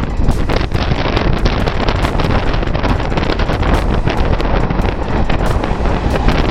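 Loud wind buffeting the microphone over the running noise of a moving passenger train: a steady, heavy rush with many short crackles through it.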